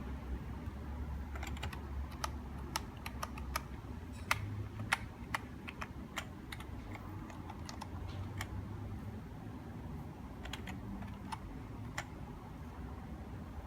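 A run of irregular sharp clicks, like buttons or keys being pressed, some coming in quick pairs, over a low steady hum.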